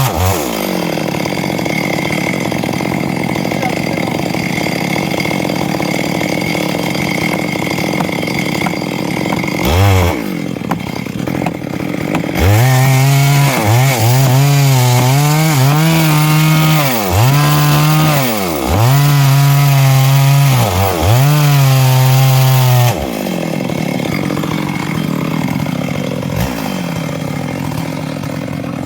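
Stihl MS382 two-stroke chainsaw with a 24-inch bar cutting through wood for about ten seconds. It then revs high several times, dropping briefly between revs, before settling into lower, steadier running near the end.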